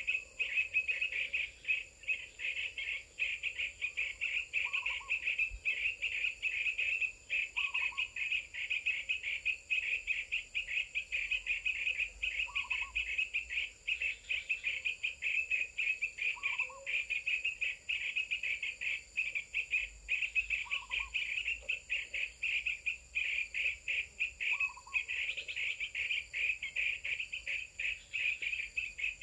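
Steady, rapidly pulsing chirring of insects, crickets or similar, with a short low call repeating about every four seconds.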